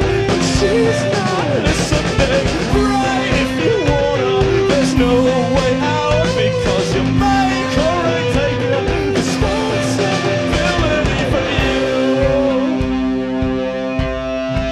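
Live rock band playing loudly: electric guitars, bass and drums, with a wavering melodic line over the top. After about twelve seconds the drumming thins and long held notes ring out.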